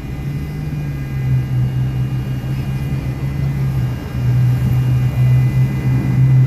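Stretch SUV limousine's engine idling: a steady low hum that dips briefly about four seconds in.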